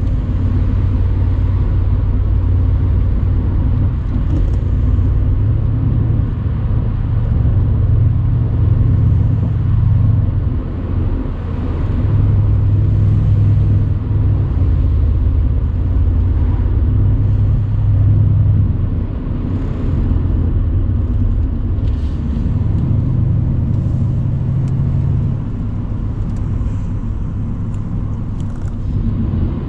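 Mercedes-AMG C63 cabriolet's 4.0-litre twin-turbo V8 running under way, its note swelling and easing off several times as the car pulls and then backs off.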